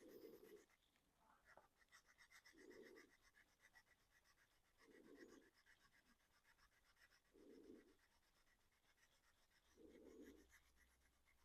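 Near silence: faint scratching and rubbing from hand work on the model body, with a soft low sound recurring about every two and a half seconds.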